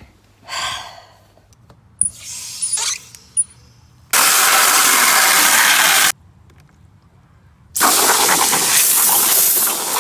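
Water spraying hard from a garden hose nozzle in two bursts of about two seconds each, with sharp starts and stops, after a few shorter, fainter rustles and knocks.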